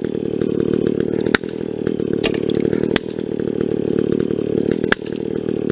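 Chainsaw running steadily at high throttle through a felling cut in a tree trunk, with a few sharp clicks.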